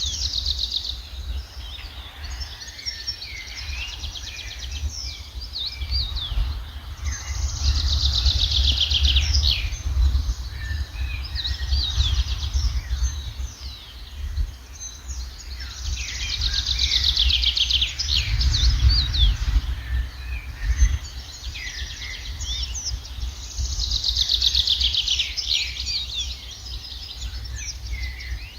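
Songbirds chirping and singing, one repeating a fast trilled phrase about every eight seconds, over a steady low rumble.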